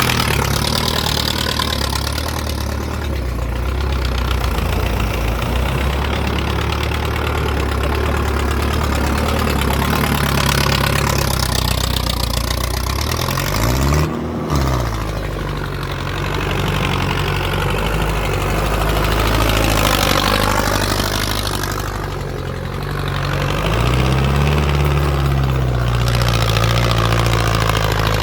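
Diesel tractor engine running steadily, with its engine speed briefly changing about halfway through and again near the end.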